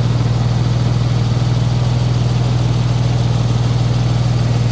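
Porsche 911 Carrera 4 GTS's 3.8-litre flat-six idling steadily with a deep, even hum.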